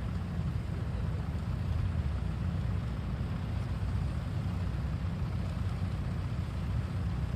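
Hydraulic excavator's diesel engine running steadily, a deep, even rumble.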